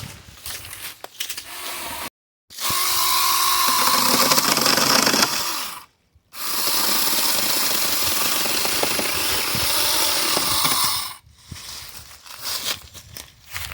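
Battery-powered 6-inch mini chainsaw running and cutting through a branch, with a steady motor whine. It runs in two stretches of a few seconds each, broken by an abrupt moment of silence. Softer rustling and handling noise follows near the end.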